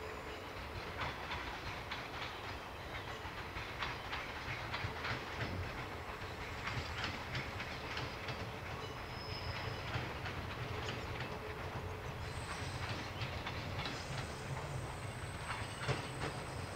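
JR 381 series electric express train rolling slowly past, with a low rumble and irregular clicking of its wheels over rail joints and points. A faint high whine joins in about twelve seconds in.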